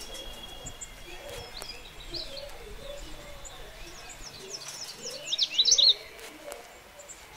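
Birds chirping, short quick chirps scattered throughout, with a loud burst of rapid chirps about five to six seconds in.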